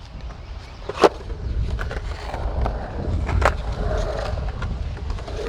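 Skateboard wheels rolling on the concrete of an empty pool with a steady low rumble, and sharp clacks about a second in and again midway.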